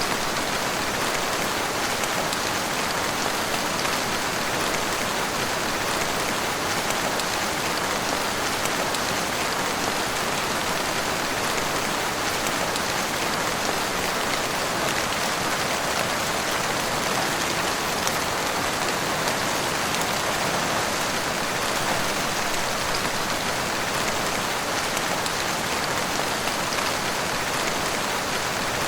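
Heavy rain pouring steadily, an even hiss with scattered sharper drop hits.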